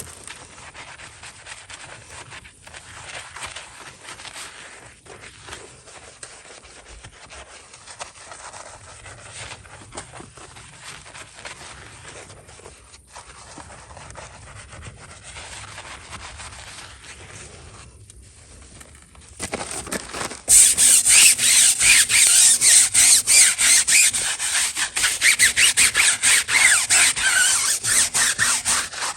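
Rubbing and scrubbing on the car, then about two-thirds of the way in a loud, steady spray of water starts suddenly. The spray fits a pressure washer rinsing the car.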